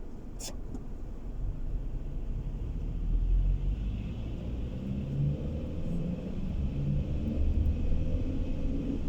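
Car engine and road rumble heard from inside the cabin, slowly rising in pitch and loudness as the car gathers speed. A single sharp click comes about half a second in.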